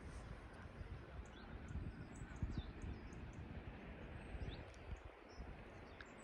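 Small birds calling: scattered short, high call notes and brief downward chirps, over a low, uneven rumble.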